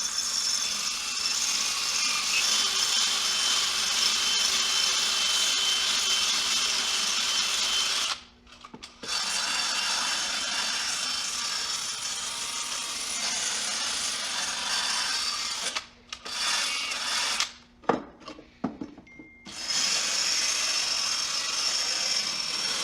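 Flap wheel on a power tool spinning and grinding inside a steel engine mount bushing housing, smoothing off sandblast roughness, with a high whine. It stops briefly about 8 seconds in, runs again, gives a few short bursts with pauses, then runs steadily again near the end.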